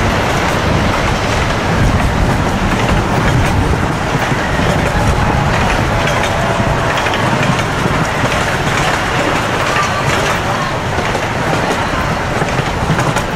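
Amusement park ride train running along its track, a steady low-heavy rumble and rattle of the cars and wheels.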